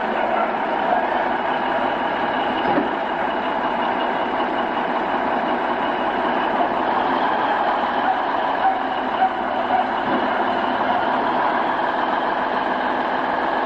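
Heavy vehicle engine running steadily, with a few faint knocks over it.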